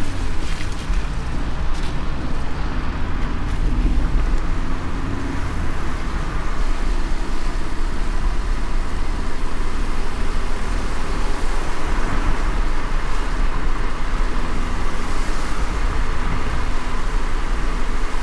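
Car driving on a wet road in light rain: a steady low road rumble with an even hiss from the tyres and rain.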